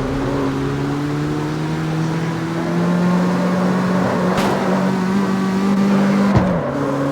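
Car engine pulling under load, its pitch rising steadily, then dropping abruptly a little after six seconds.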